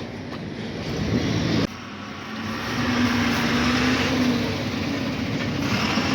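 Lorry on the move: steady engine and road noise, with a sudden change in the sound about 1.7 s in.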